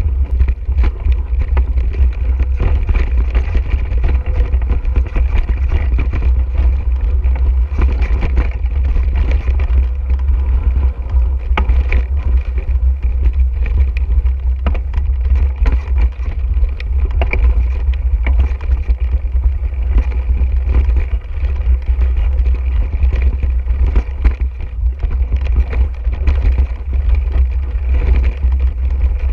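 A mountain bike being ridden over a rough dirt trail. A steady low rumble of wind and vibration on the microphone runs under constant rattling and clatter from the bike.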